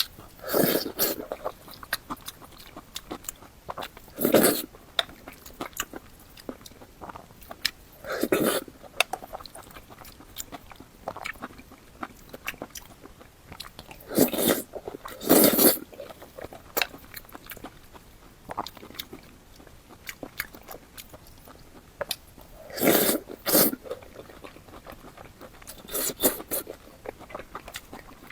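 Close-miked eating: steady chewing of minced-pork eggplant and rice, with short louder mouth sounds every few seconds, two close together about a quarter and three quarters of the way through.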